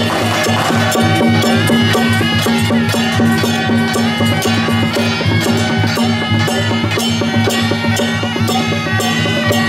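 Taiwanese temple-procession music: traditional folk music with fast, even percussion strokes under held melodic tones.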